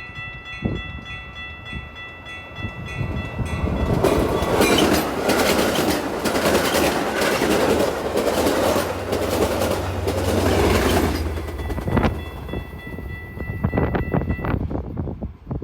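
A train passing close by at speed: about four seconds in, a loud rush of wheels on rail with rapid clickety-clack sets in and lasts about seven seconds, then drops away. Steady high ringing tones sound before the train arrives and again briefly after it passes.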